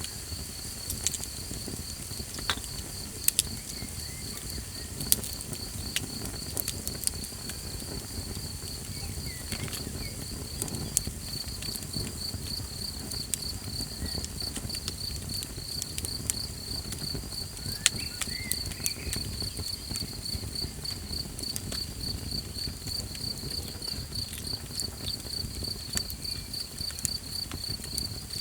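Small campfire crackling, with scattered sharp pops over a low rumbling hiss, under a steady, rapidly pulsing trill of night insects.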